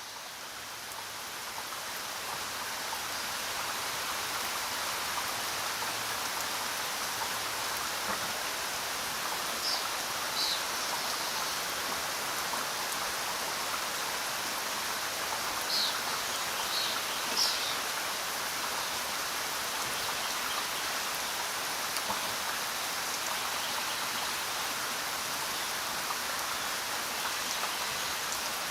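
Steady rain, an even dense hiss of falling drops, fading up over the first few seconds and then holding level. A few brief high-pitched sounds stand out about a third of the way in and again a little past halfway.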